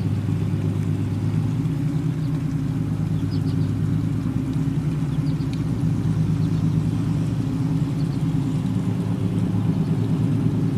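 Boat engine running steadily, a low even drone with no change in speed.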